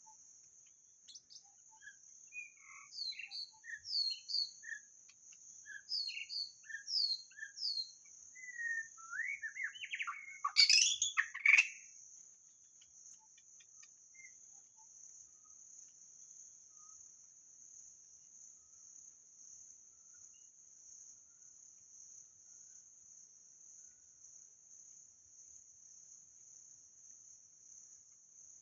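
White-rumped shama singing a series of varied clear whistled phrases, ending in a louder rush of rapid notes, then falling silent. Underneath, a steady high insect drone goes on throughout and is left alone once the song stops.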